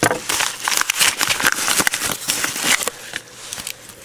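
Paper and plastic packaging crinkling and rustling in close handling as a mailed envelope of trading cards is opened.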